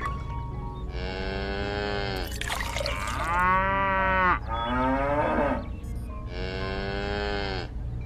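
Cattle mooing: about four long calls in a row, each lasting a second or more.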